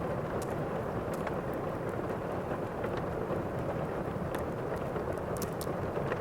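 Thunderstorm ambience: steady rain with a low rumble, and scattered sharp crackles of a wood fire through it.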